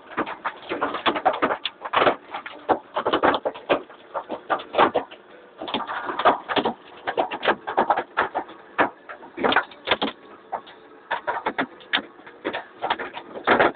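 Hailstones striking hard surfaces in a dense, irregular clatter of sharp impacts, coming in heavier flurries now and then.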